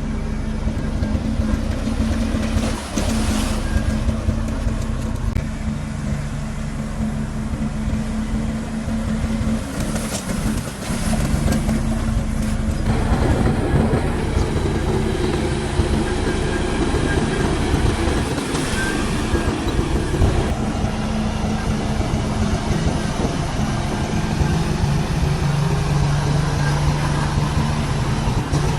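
Heavy diesel earthmoving machinery running steadily under load, with a constant low engine drone. About halfway through it thickens and grows a little louder.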